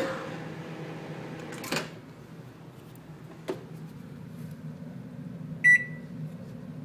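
Microwave oven running with a steady low hum, broken by a sharp crack about two seconds in and a smaller click a little later. Near the end comes a single short electronic beep from the microwave.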